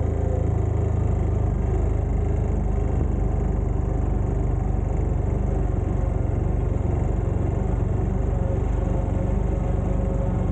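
Farm tractor engine running steadily at a constant speed, a low, even hum.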